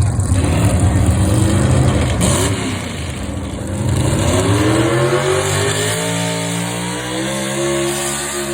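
Pulling truck's engine running hard at a truck pull, its pitch rising and dipping briefly about two seconds in, then climbing steadily as the revs build from about four seconds in.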